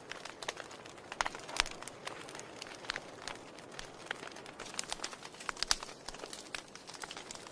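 Wood fire crackling in a fireplace: irregular sharp pops and snaps over a soft steady hiss, with a few louder pops about a second and a half in and again near three quarters of the way through.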